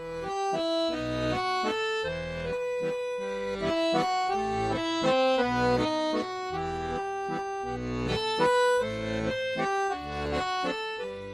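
Accordion music: a melody of sustained notes over regularly pulsing bass chords.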